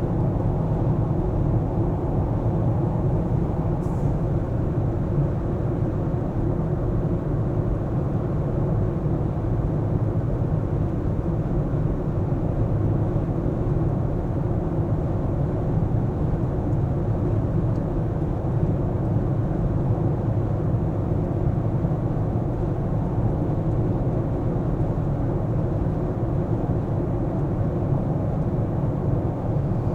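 Steady low rumble of a car on the move: tyre and engine noise at an even cruising pace.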